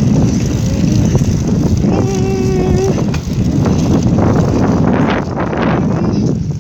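Wind buffeting the microphone while riding a bicycle, a loud, steady rumble. About two seconds in, a short, steady high-pitched tone sounds for just under a second.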